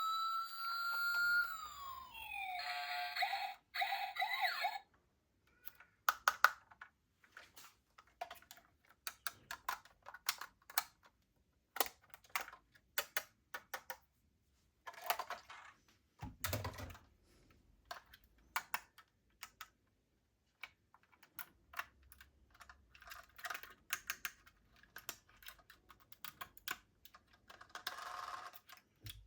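A toy police car's electronic siren wails up and then down over the first couple of seconds, followed by a short electronic warble. Then comes a long run of light, irregular plastic clicks and rattles from the toy cars being handled.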